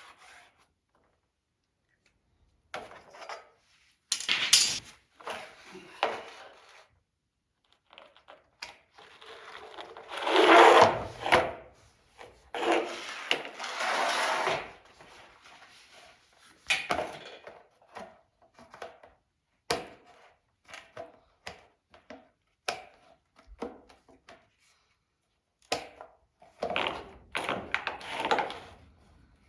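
Plastic rocker panel being cut by hand: irregular rasping strokes with many short sharp clicks in between, and brief pauses.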